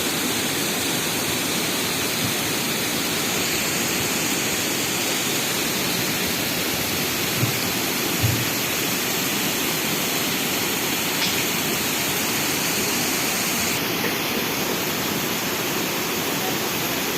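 Waterfall of spring water rushing steadily.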